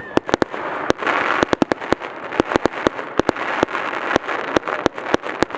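Fireworks going off in a rapid, irregular volley of sharp bangs and cracks, several a second, over a continuous hiss.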